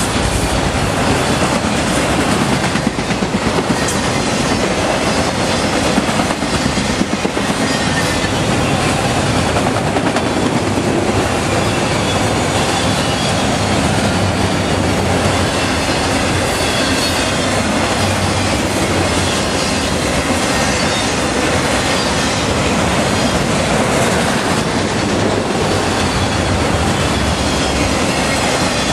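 Freight train of autorack cars passing close by: a loud, steady rumble and clatter of steel wheels on the rails as car after car rolls past.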